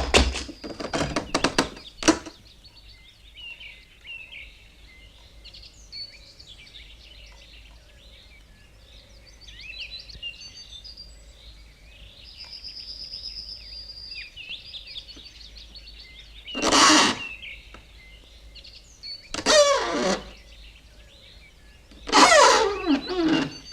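Birds chirping faintly, with a few clicks in the first couple of seconds and three louder sounds that glide up and down in pitch in the second half.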